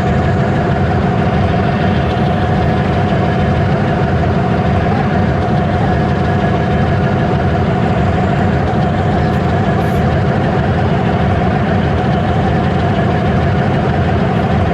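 Train engine running with a steady loud drone: a low rumble with a few steady humming tones over it, unchanging throughout.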